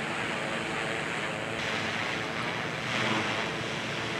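Roadside traffic noise: a steady rush of passing vehicles, with a louder swell about three seconds in as a car goes by.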